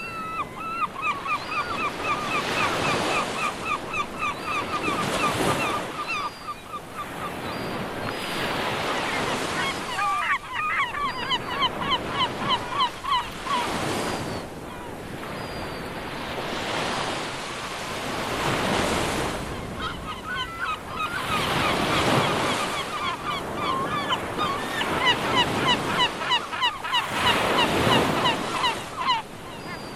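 A flock of gulls calling in rapid series of short, repeated cries, several a second, in three long bouts. Under them runs a steady rush of water and wind.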